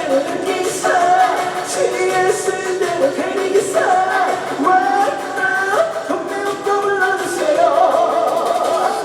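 Trot song sung live by a male singer over instrumental accompaniment, the melody running without a break.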